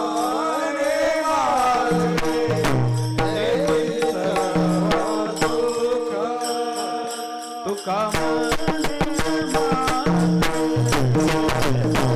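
Marathi devotional kirtan music: a singer's ornamented, wavering vocal line over steady sustained drone tones, with drum strokes and small hand cymbals keeping the rhythm. The percussion grows busier in the last few seconds.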